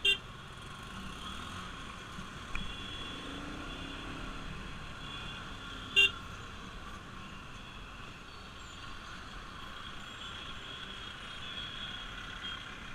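Two short vehicle horn toots about six seconds apart, over a steady bed of road and traffic noise.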